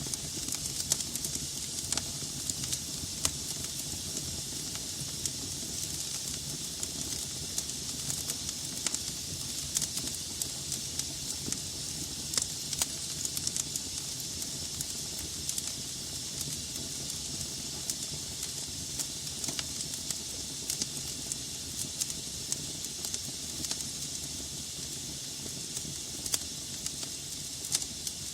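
Wood fire burning in a fireplace: a steady hiss with frequent irregular pops and crackles from the burning logs.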